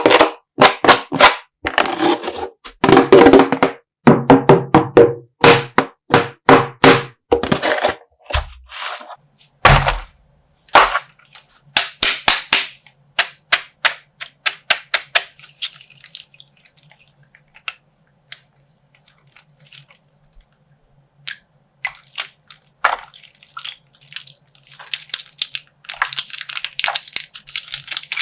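Sharp pops, taps and thunks from squeezing and popping a slime-filled plastic bag. They come fast and loud for the first ten seconds, then sparser, with plastic crinkling near the end.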